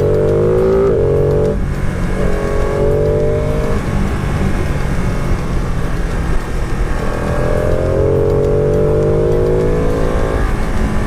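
Motorcycle engine under acceleration while riding, its pitch rising in several pulls and dropping at each gear change, over steady road and wind noise.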